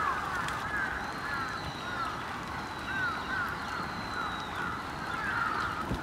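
Several birds calling over and over in short, arching chirps, over a steady hiss. A thin, high whistle is held from about a second in until about four seconds in.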